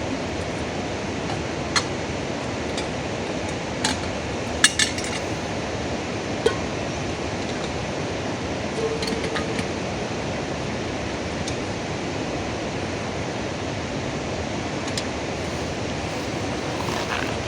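Steady hiss of rain, with a few sharp clinks scattered through the first seven seconds.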